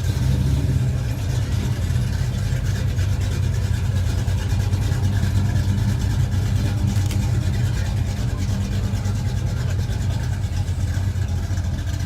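1964 Ford Ranchero's engine idling steadily, warming up before it pulls out.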